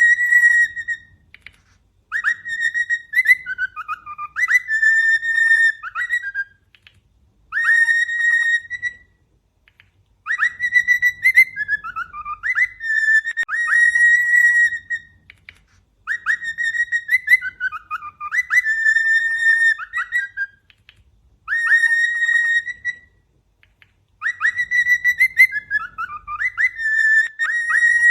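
A cockatiel whistling a learned tune: the same phrase of clear whistled notes, mostly held at one pitch with a swooping dip and rise in the middle, repeated about every eight seconds with short pauses between.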